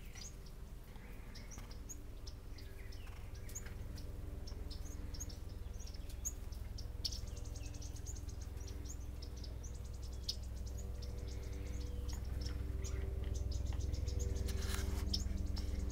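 Small songbirds giving short, high chip calls scattered throughout, with a buzzy high trill from about seven to nine seconds in. Under them runs a steady low hum that grows louder toward the end.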